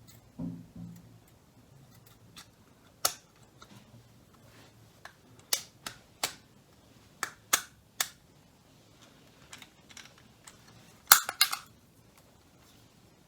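Small sharp clicks and snaps of the headlight switch's plastic parts being handled and pressed together during reassembly, singly at first, then several in quick succession near the end.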